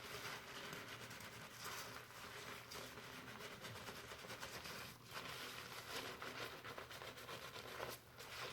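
Fingers working foamy shampoo lather through hair, giving a soft, continuous crackly rustling with fine popping of bubbles.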